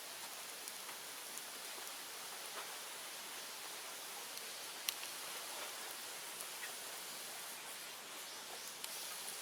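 Open fire of cut bamboo and brush burning with a steady hiss and scattered small crackles, with one sharper pop about five seconds in.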